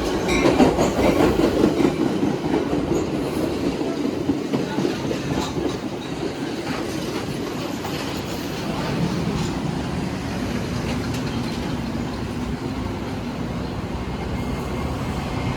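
BNSF-line commuter train pulling into the station, its wheels clacking over the rail joints. The sound is loudest at first and eases to a steadier rumble as the train slows.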